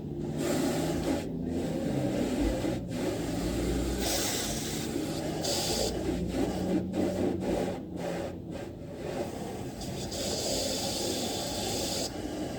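Self-service car wash bay: a high-pressure spray wand hissing on twice, over the steady hum and rush of the wash equipment.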